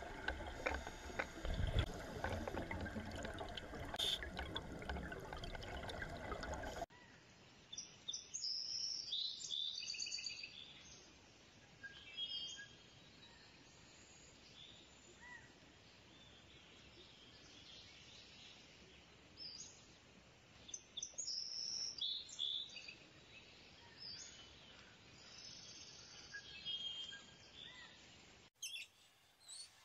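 Underwater noise with bubbling from scuba divers for the first several seconds. Then small birds chirp and call in short high bursts over a faint outdoor background.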